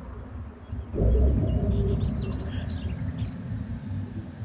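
Goldcrest singing: a rapid series of very high, thin notes that start about a second in, with a short high note near the end, over a low rumbling background noise.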